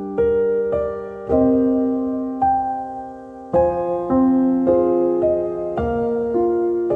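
Slow, gentle piano music: single notes and chords struck every half second to a second, each left ringing as it fades.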